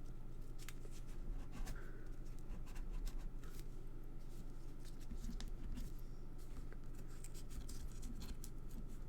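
Cardstock being handled and worked at the edges: scratchy paper rubbing and small clicks scattered throughout, over a low steady hum.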